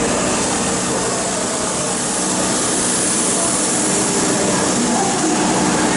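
Electric commuter train running along an underground station platform: a steady, loud rush of wheel and motor noise.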